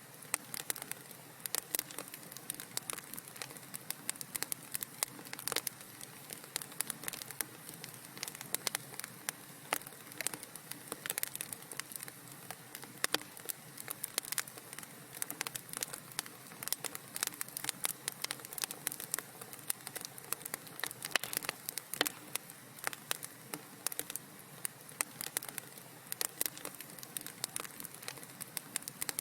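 Wood fire crackling in a fireplace: a steady soft hiss with many sharp irregular pops and snaps, several a second.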